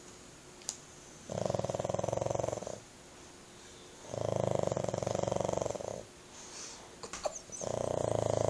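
Pug snoring very loud in deep sleep: three long snores about three seconds apart, with quiet gaps between them.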